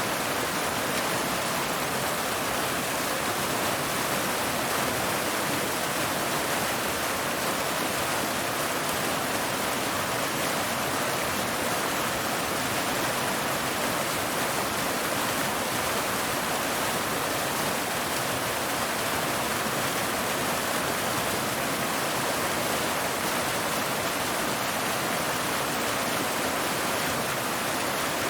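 Waterfall: a steady rush of water pouring over rocks, even and unbroken.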